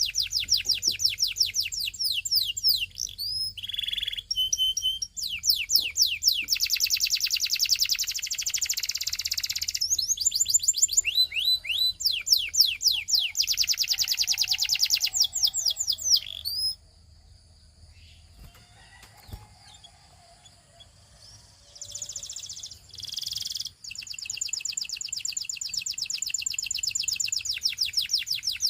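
Canary singing long, fast trills of quickly repeated high sweeping notes, phrase after phrase. The song breaks off for several seconds just past the middle, picks up with a few short notes, and then trills on again.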